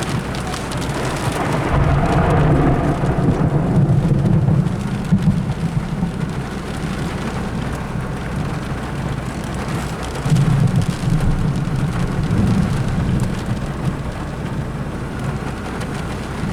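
Rolling thunder rumbling over steady heavy rain. The rumble swells about two seconds in and again around ten seconds in.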